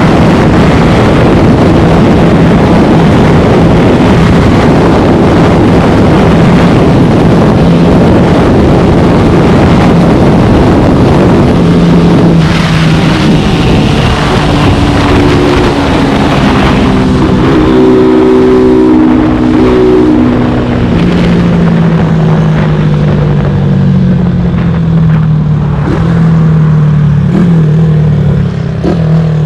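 Modified CG200 single-cylinder motorcycle engine running hard under riding. The revs hold high, then rise and fall in steps through gear changes from about halfway on.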